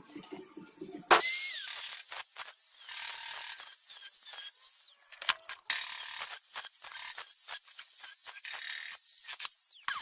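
A high-speed handheld power tool starts up about a second in with a whine. Its pitch dips and recovers over and over. It stops briefly around the middle, runs again, then winds down near the end.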